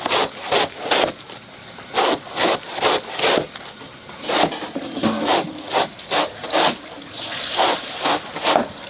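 Hand saw cutting through wood: quick back-and-forth rasping strokes, about two a second, some irregular.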